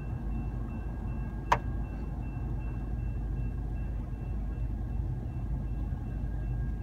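Union Pacific freight train's cars rolling past with a steady low rumble, a faint steady high tone over it. A single sharp click about a second and a half in.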